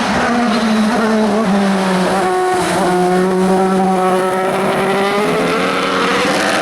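Race car engine running hard on a hill climb. Its pitch dips about two seconds in, then climbs steadily as the car accelerates.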